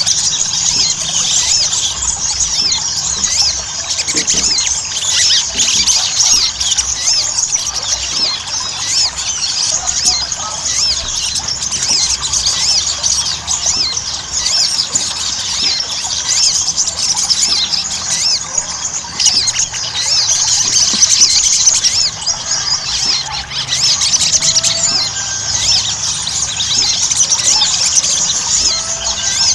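Little spiderhunter (sogok ontong) in full song: a dense, unbroken stream of rapid, high-pitched chattering chirps and trills. This is a 'gacor' sogon recording played as a lure to get other sogon singing.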